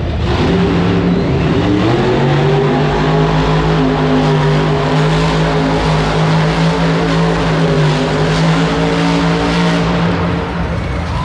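Monster truck engine running hard at high revs: its pitch climbs over the first few seconds, holds high and steady, and eases off slightly near the end.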